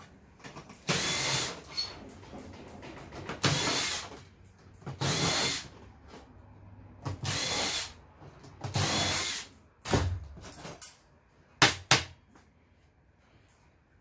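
Cordless drill-driver spinning screws out in five short bursts of under a second each, followed by a few sharp knocks near the end.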